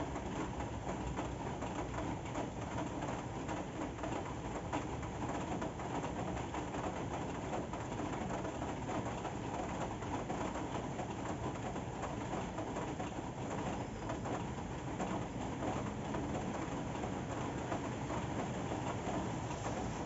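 Steady rain falling, an even dense patter of drops.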